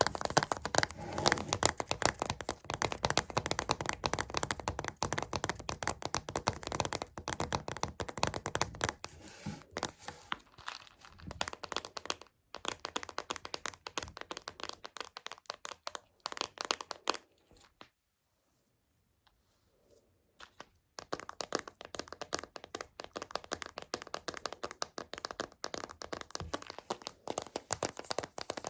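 Rapid fingernail tapping and scratching on a Choco Baby chocolate candy container, a dense run of sharp clicks and crackles that stops for about three seconds a little past the middle, then picks up again.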